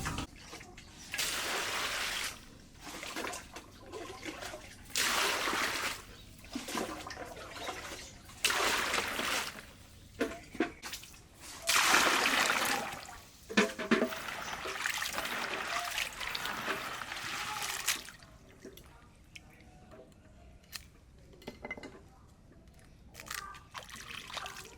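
Water pouring and sloshing in several separate bursts, the longest lasting about four seconds, followed by a quieter stretch of scattered small clicks and knocks.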